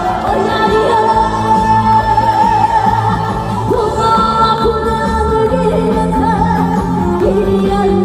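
A woman singing a Korean trot song with instrumental accompaniment, holding long, wavering notes.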